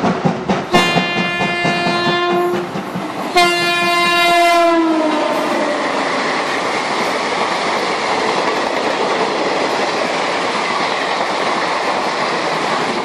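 Train horn sounding twice in two long, steady blasts, the second sagging in pitch as it dies away, followed by several seconds of steady hiss. Rhythmic clicking from running on track stops as the horn begins and returns right at the end.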